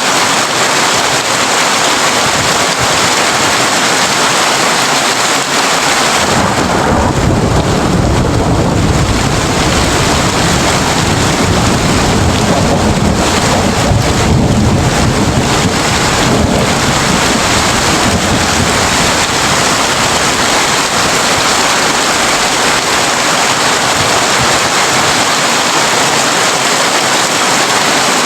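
Heavy rain drumming steadily on a tin roof. About six seconds in, a long low rumble of thunder rolls in under the rain and fades away some twelve seconds later.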